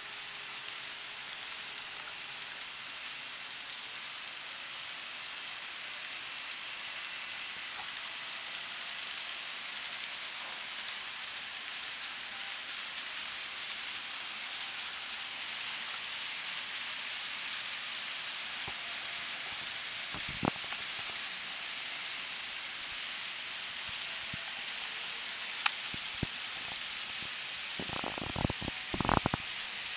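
Steady hiss of N-scale model trains running on the layout's track, with a few short sharp clicks in the second half, several together near the end.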